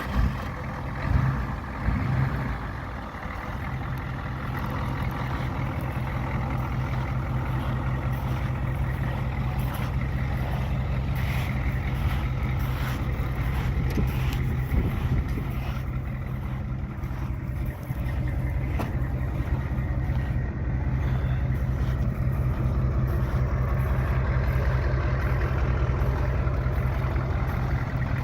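Ford F250 pickup's diesel engine just after starting: it surges briefly a few times in the first two seconds, then settles into a steady, evenly pulsing idle.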